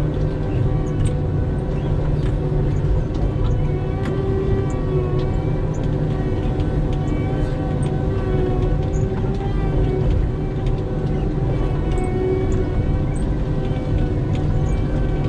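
A vehicle engine running steadily, a deep rumble under a constant whine.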